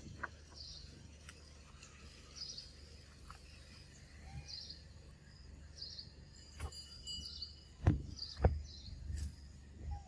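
A bird calling in short high chirps repeated every second or two over a faint steady forest background, with scattered clicks. Two louder thumps come about eight seconds in.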